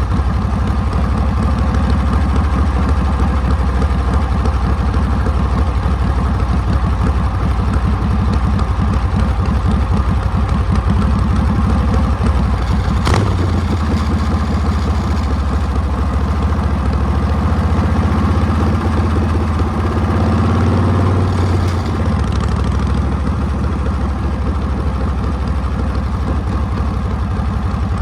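Harley-Davidson Panhead V-twin engine running steadily, heard close up from the bike's sissy bar. About halfway through a sharp click comes and the engine note changes for several seconds before settling back near the end.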